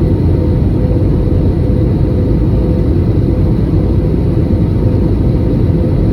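Airliner's steady low rumble of engines and airflow, with a faint constant hum over it.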